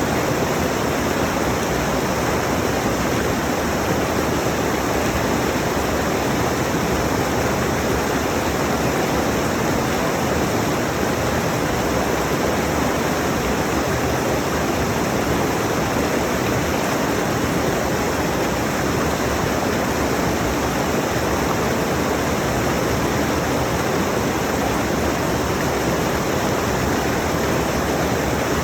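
A rushing mountain stream: a steady, dense rush of flowing water with no breaks or changes.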